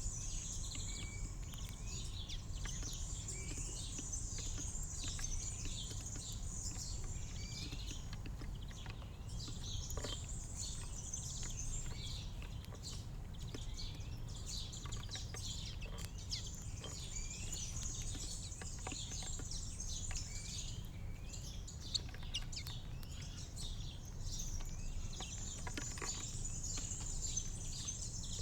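Small birds chirping and twittering continuously in a dense, overlapping chorus, over a steady low background rumble.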